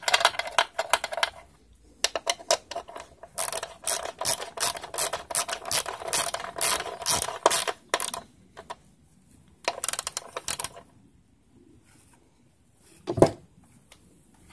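Hand ratchet clicking in quick runs as fasteners are turned to secure the welder's handle, then a single knock near the end.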